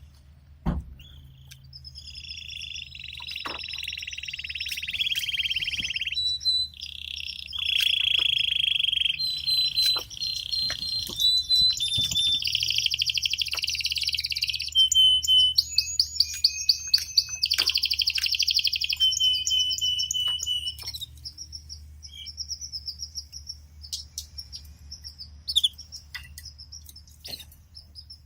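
Male domestic canary singing a long song of rapid trills and rolls, then stopping about three-quarters of the way through; faint clicks and taps follow, over a low steady hum.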